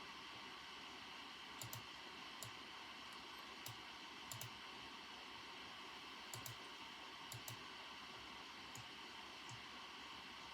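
Sparse, unhurried keystrokes on a computer keyboard: about a dozen irregularly spaced clicks, several in quick pairs, over a steady soft hiss of background ambience.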